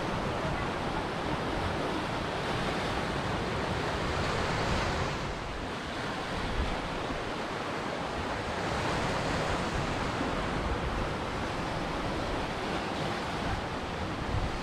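Ocean surf: waves breaking and washing in a continuous hiss that swells and ebbs, with a lull about six seconds in.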